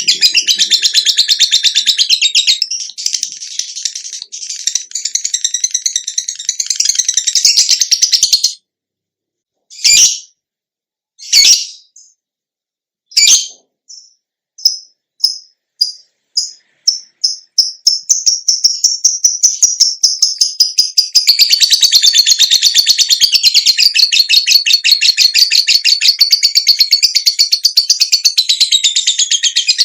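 Songbird singing: a dense, rapid high trill that breaks off about eight seconds in. After a short gap come a few sharp single notes, then a run of short notes that speed up and merge into a continuous warbling trill.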